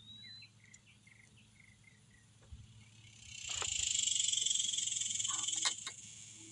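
An insect's loud, high buzz swells in about three seconds in, holds steady, then drops away near the end. Before it, a few short bird chirps.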